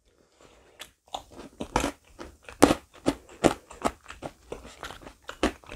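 Chewing thick custard pudding with crunchy white chocolate balls in it: an irregular run of short, crisp crunches, starting about a second in.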